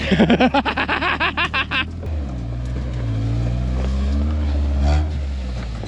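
Rock-crawling truck's engine running at low revs, its pitch rising and falling slightly past the middle. Over the first two seconds a louder, rapid pulsing sound with a pitch, about eight pulses a second, rides over it.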